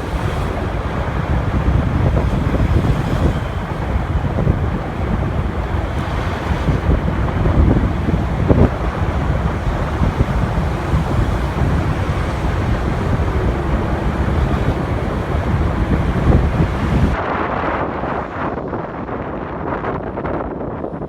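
Wind buffeting the microphone of a moving motorcycle, with engine and road noise underneath. About seventeen seconds in, the low wind rumble drops away sharply and the sound turns quieter.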